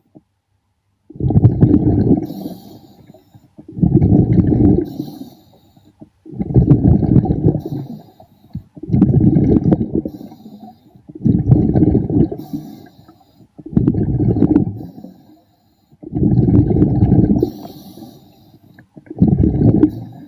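An underwater diver breathing, each exhalation a rumbling burst of bubbles, eight times at an even pace of about one every two and a half seconds.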